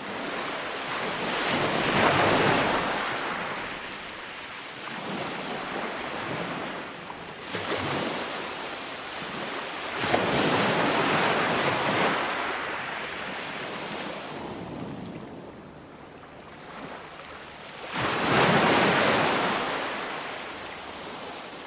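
Ocean waves breaking and washing onto a shore. Three big swells surge and fade about eight seconds apart, the loudest near the start and near the end.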